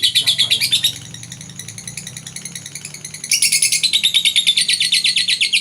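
Lovebird chattering in a long, rapid trill of high chirps, about a dozen a second, the continuous 'ngekek' chatter that lovebird keepers breed and train for. It softens about a second in and comes back loud a little after three seconds, sliding slowly down in pitch near the end.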